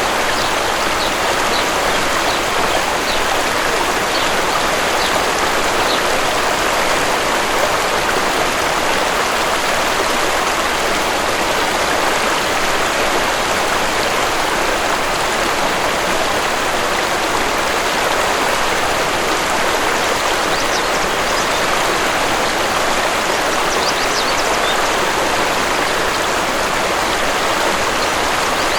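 Steady rush of a waterfall, water pouring and splashing without let-up. Faint short high bird chirps come through now and then, early on and again near the end.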